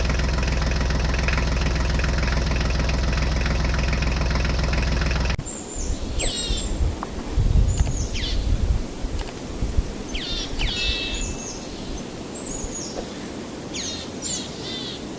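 A steady mechanical hum that holds one pitch for about five seconds and then cuts off abruptly. After it, birds chirp repeatedly over outdoor background noise, with a few low knocks and rumbles.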